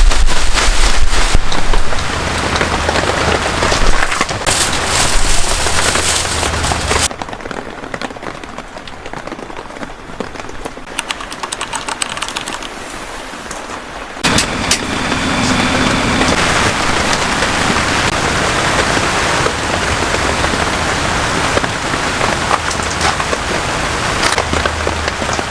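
Heavy rain pouring steadily onto surfaces. It drops abruptly to a lighter patter about seven seconds in and comes back strong about fourteen seconds in.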